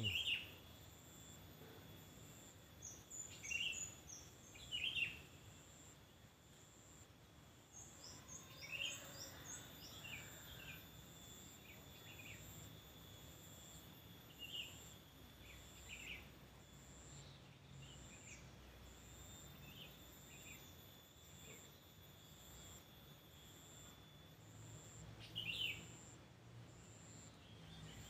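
Small-bird chirps, short and high, in scattered little groups a few seconds apart, over a faint steady high tone.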